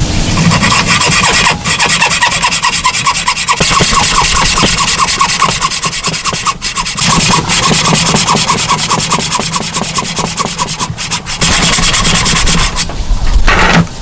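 A hand tool rasping on wood in quick, even strokes, about five a second, broken by a few short pauses.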